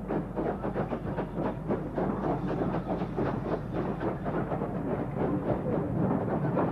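Steam train running, a dense continuous clatter of wheels and rail joints.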